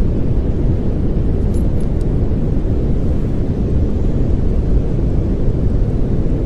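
Steady pink noise, an unbroken hiss weighted toward the low end.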